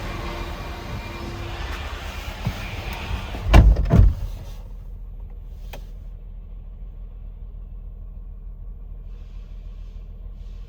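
2016 Land Rover LR4's supercharged 3.0-litre V6 idling on a cold start, then two heavy thumps about half a second apart a little over three seconds in, after which the engine is heard much quieter and muffled.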